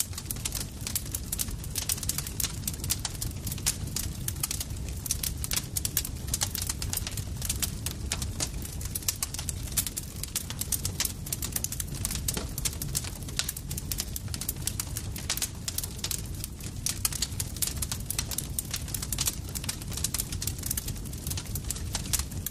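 Campfire crackling steadily: many quick, irregular snaps and pops of burning wood over a low, steady rumble of the flames.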